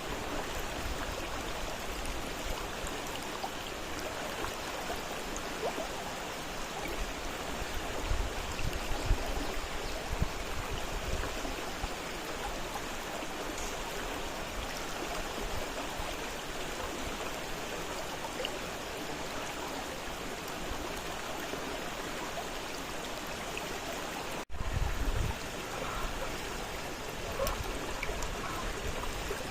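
Fast-flowing river rushing steadily over rocks, a constant even rush of water. A few low rumbles come in around eight to eleven seconds and again near twenty-five seconds, and the sound drops out for an instant just before the second one.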